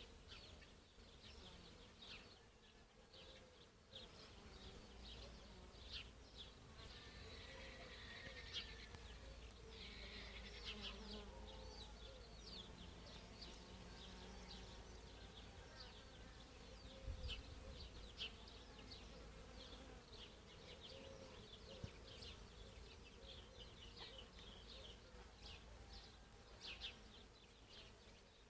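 Faint countryside ambience: many short high chirps in an irregular patter over a low wavering hum and a low rumble.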